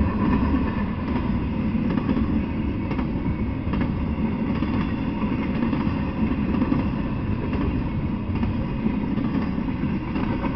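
Intermodal freight train of double-stack well cars rolling past: a steady rumble of steel wheels on the rails, with a few faint clicks.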